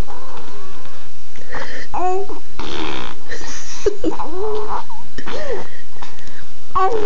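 Funny vocal noises: raspy, wheezy breaths mixed with short squeaky calls that slide up and down in pitch.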